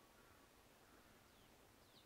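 Faint bird calls: a few quick high notes, each sliding downward, begin near the end over near silence.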